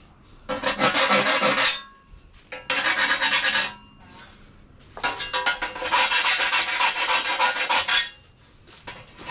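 Hand file rasping along the edge of a sheet-steel repair panel, in three spells of filing strokes: a short one about half a second in, another around three seconds in, and a longer run of about three seconds near the end.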